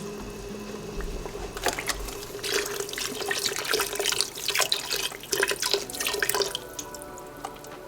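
Water running and splashing into a sink for about five seconds, then stopping, with a faint steady hum underneath.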